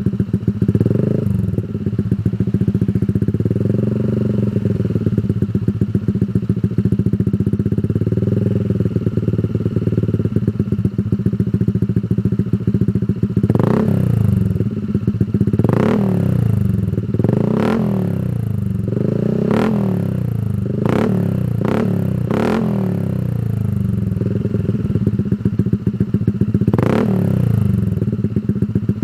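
Honda ADV 160 scooter's single-cylinder engine running through a Shijiro Type MT GP Power aftermarket exhaust. It idles steadily, swells gently a few times, then is blipped hard about eight times in quick succession, each rev rising and dropping straight back to idle, with one more blip near the end.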